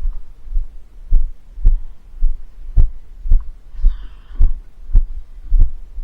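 Footsteps of a person walking: steady low thumps, a little under two a second.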